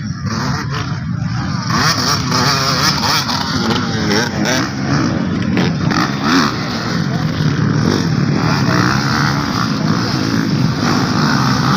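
Motocross dirt bike engines revving up and down as the bikes race, louder from about two seconds in.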